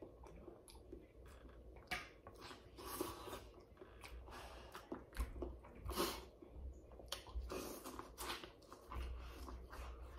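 A person chewing and eating a saucy seafood boil with his hands, close to the microphone: irregular faint wet smacks and clicks of mouth and fingers.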